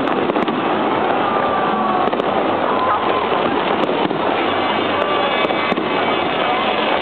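Fireworks display going off without a break, a dense steady crackle and bang, with a crowd's voices mixed in.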